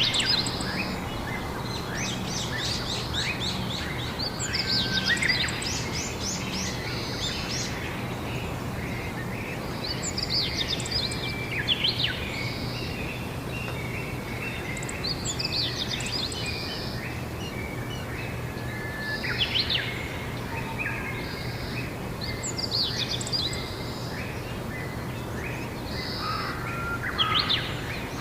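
Songbirds singing in spring, short song phrases repeated every few seconds, over a steady low hum and background noise.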